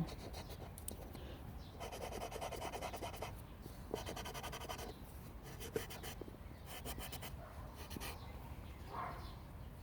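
Charcoal stick scratching and rubbing across drawing paper in several quick bursts of strokes, laying down texture.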